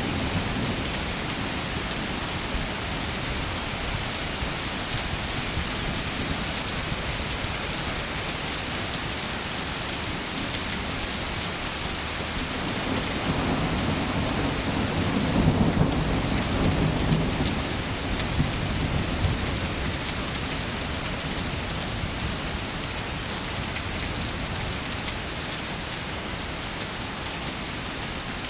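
Steady heavy rain falling, with a low rumble of thunder swelling and fading in the middle.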